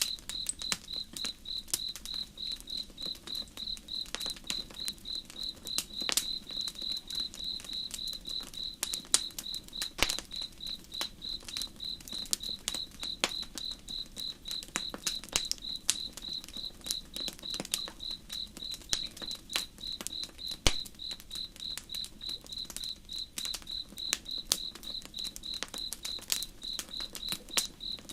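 Crickets chirping in a steady, even pulse of a few high chirps a second, over a campfire crackling with irregular sharp pops, two of them louder, about ten and twenty seconds in.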